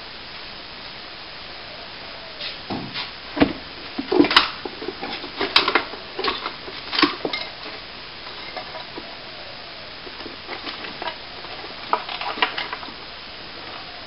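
Irregular clicks, knocks and scrapes in two bursts, the first about two seconds in and the second near the end, over a steady background hiss.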